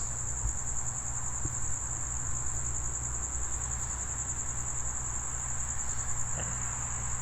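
Crickets chirping in one continuous high trill, over a low steady hum.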